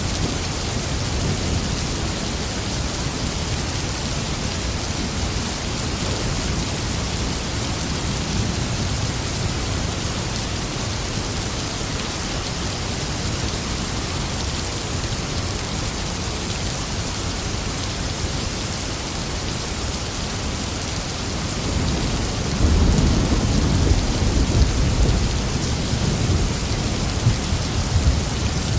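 Steady heavy rain falling in a thunderstorm, with a rumble of thunder building in about three-quarters of the way through and running on to the end.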